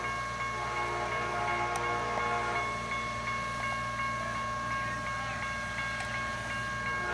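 Railroad grade-crossing warning sounding as a steady, high-pitched ringing, over the low steady hum of idling engines.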